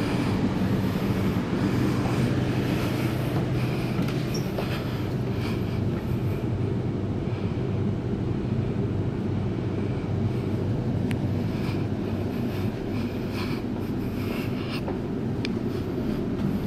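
Steady low rumble and hum inside a carriage of a Waratah Series 2 double-deck electric train, with a few faint ticks.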